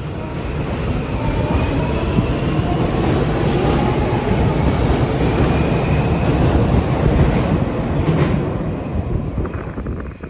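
Electric train running on rails: wheel and track rumble with hiss, building over the first few seconds and holding, with a faint thin wheel squeal over it, then dropping away sharply at the end.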